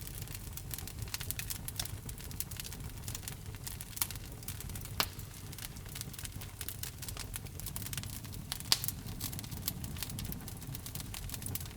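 Wood fire crackling in a fireplace: a constant patter of small pops, with a couple of louder snaps about five and nine seconds in, over a low steady rumble of the flames.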